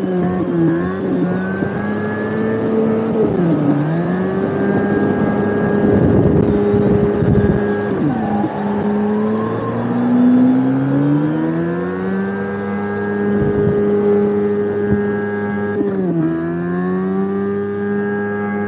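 A Ferrari engine sound played through a speaker on an electric unicycle, revving up and down. Its pitch dips sharply about three and a half, eight and sixteen seconds in, and climbs steadily around ten to twelve seconds in.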